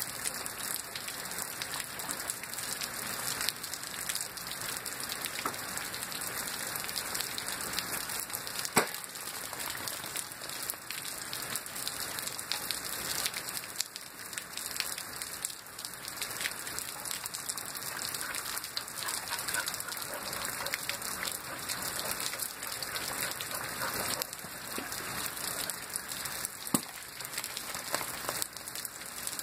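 Heavy rain falling steadily onto puddled ground and standing water, a dense even patter. Two sharp louder taps stand out, one about a third of the way in and one near the end.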